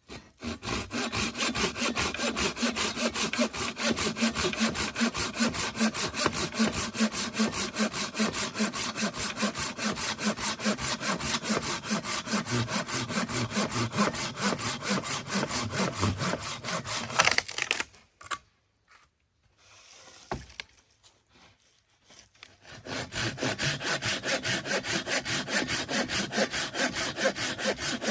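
Hand saw cutting through wood in quick, even back-and-forth strokes. The sawing stops for a few seconds past the middle, with one small knock in the pause, then starts again.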